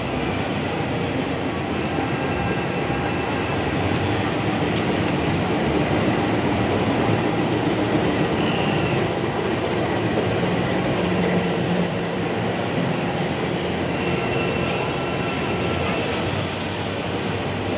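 Diesel-hauled passenger train rolling slowly in along the platform, coming in to stop: a steady rumble of the locomotive and the passing coaches' wheels on the rails, with a faint high squeal now and then.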